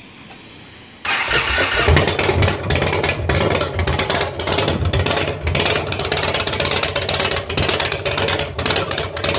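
2014 Indian Chieftain's Thunder Stroke 111 V-twin, fitted with stage 2 cams and a Dirty Bird 2-in-1 exhaust, firing up about a second in and then idling loudly with an uneven pulsing exhaust note.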